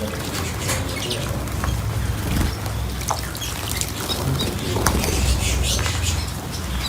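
Small cage birds chirping in short, scattered calls, with sharp little clicks and flutters, over a low background rumble.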